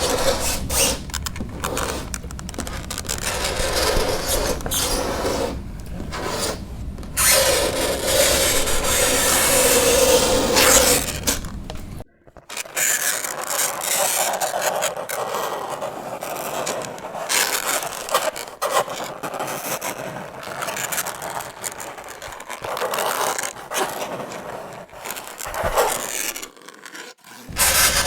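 Fingernails scraping across a chalkboard in repeated strokes, with a high squeal in places and a brief break about twelve seconds in.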